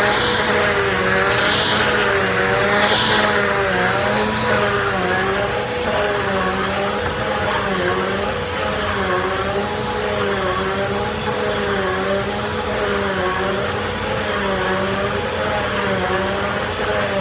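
Bissell Easy Vac model 3130 vacuum cleaner running, its motor whine wavering up and down in pitch every second or two. There is extra hissing in the first few seconds.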